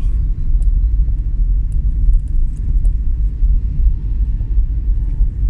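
Steady low rumble of a vehicle driving on the road, with faint light ticks over it.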